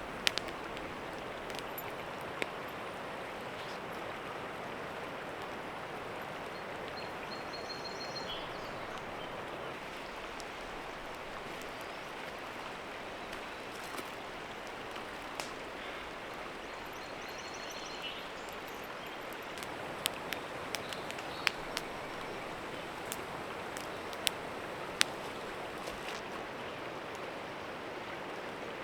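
Steady rush of a small creek's flowing water, with a few short bird chirps and scattered sharp clicks, most of them in the second half.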